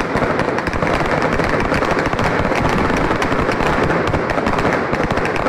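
Fireworks going off: a dense, continuous crackle of many rapid bangs and pops with no break.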